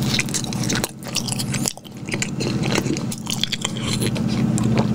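Close-miked biting and chewing of a soft chocolate-glazed donut topped with M&M candies, with wet mouth clicks and smacks. Near the end, milk is drunk straight from the carton.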